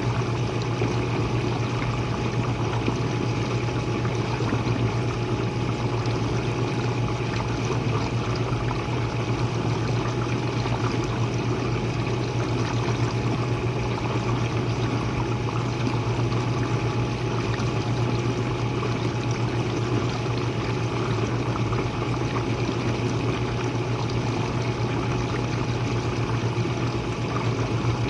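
Jenn-Air dishwasher running mid-cycle, heard from its base: a steady low motor hum under an even rush of spraying, sloshing water, unchanging throughout.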